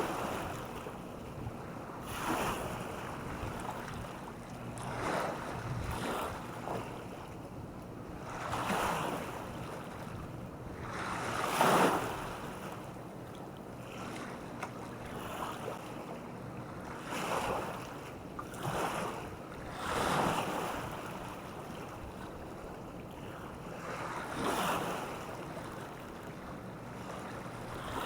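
Small waves washing onto a beach, a rush of surf every two to four seconds, the strongest one about halfway through.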